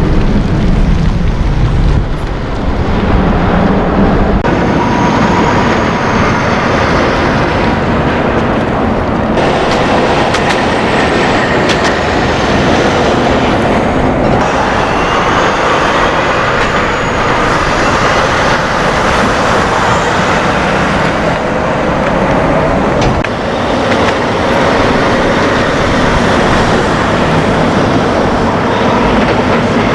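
Loud, steady rumble of heavy vehicles passing close by, with a few faint high gliding whines.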